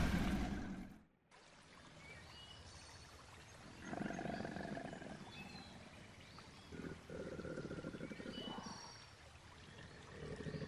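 Wild-animal ambience over river water: two low, rough growls, one about four seconds in and one about seven seconds in, with short high chirps scattered above them.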